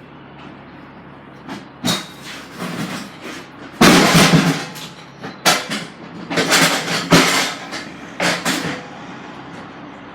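Truck engine idling, with a run of loud bangs, clatter and short hissing bursts between about 1.5 and 9 seconds, loudest around 4 and 7 seconds.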